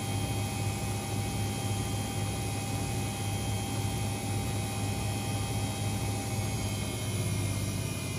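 Front-loading washing machine spinning its drum at high speed in the spin cycle, around 1000 rpm: a steady, even hum with a hiss.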